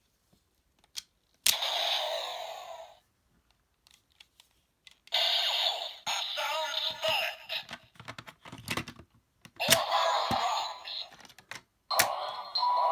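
Bandai DX Assault Wolf Progrise Key with its Assault Grip attached, playing electronic sound effects and voice lines through its small speaker in four separate bursts, with sharp plastic clicks from handling and pressing the toy between them. The sound is thin, with little low end.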